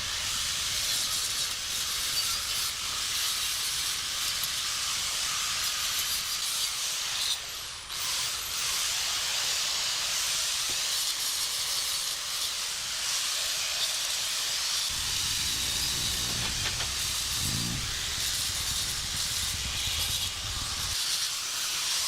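A steady hiss of rushing air or spray, with a low rumble added from about fifteen to twenty-one seconds in.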